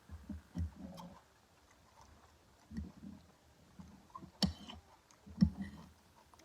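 Close-miked chewing and mouth sounds of someone eating: irregular soft, wet thumps and small clicks, with two sharper clicks a little past the middle.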